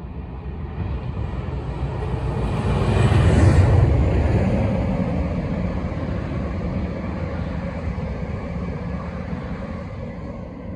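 A diesel locomotive hauling a South Western Railway Class 701 electric unit passes, its engine loudest about three and a half seconds in. The unit's wheels then keep rolling steadily over the rails, slowly fading.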